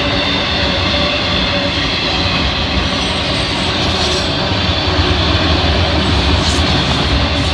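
Freight train of autorack cars rolling past at close range: a steady, loud rumble of steel wheels on the rails.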